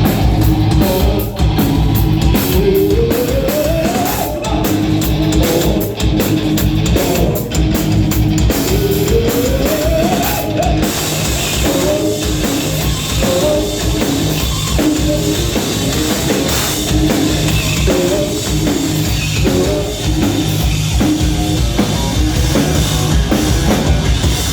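Rock music played by a band with drum kit and guitar. A melodic line climbs twice in the first ten seconds over a steady beat, and sharp drum hits give way to a steadier cymbal wash about halfway through.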